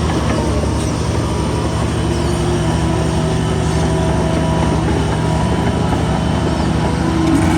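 Diesel engine of heavy earthmoving machinery running steadily, a continuous low rumble with a few held tones.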